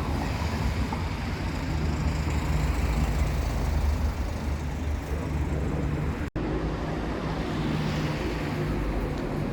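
Steady low rumble of road traffic, broken by a momentary dropout about six seconds in.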